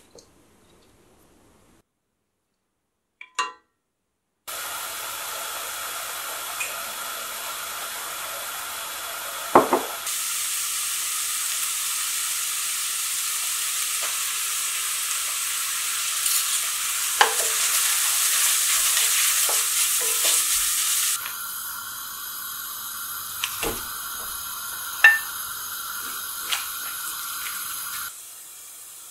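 Onion and tomato sizzling as they fry in a stainless steel pan, stirred with a wooden spoon that knocks against the pan now and then. The sizzling starts about four seconds in, after near silence.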